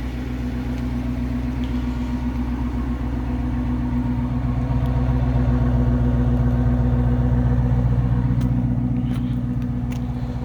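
2013 Chrysler 300C's 5.7-litre HEMI V8 idling steadily through a Dynomax Race Bullet Mini muffler, still warming up after a cold start. The exhaust note grows a little louder about halfway through, then eases toward the end, with a few faint clicks near the end.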